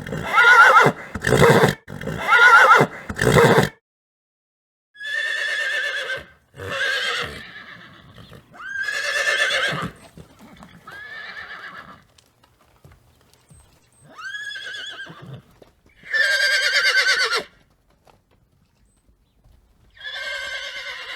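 Horses neighing and whinnying in a string of separate calls: four loud, short neighs in quick succession at the start, then longer whinnies with pauses between them.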